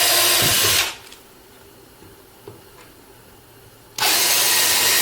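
Power drill with a small 3/32-inch bit boring pilot holes into wood: one run of the drill ends just under a second in, and a second run starts about four seconds in, with a few light knocks in between.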